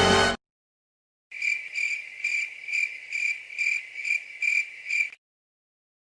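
Crickets chirping: a steady high chirp pulsing about twice a second, the familiar cricket sound effect. It follows the abrupt end of a music clip in the first moment.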